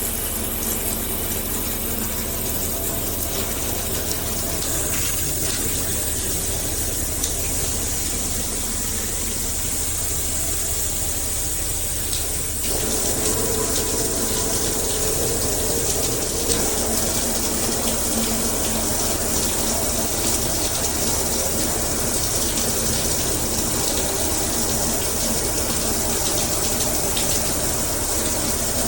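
Handheld shower head spraying water in a steady rush, getting a little louder and fuller about halfway through.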